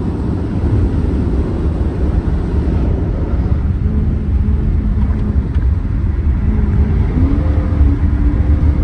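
Chrysler 300C with an aftermarket exhaust driving at highway speed, its low exhaust drone half buried under heavy wind noise on the microphone. The exhaust note climbs in pitch about seven seconds in and holds there.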